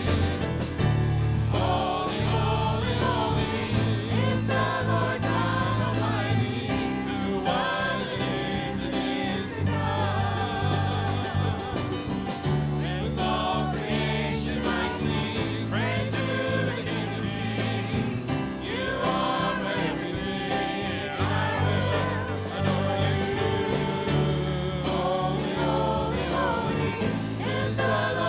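Worship song sung by a group of voices with instrumental accompaniment and a steady bass line.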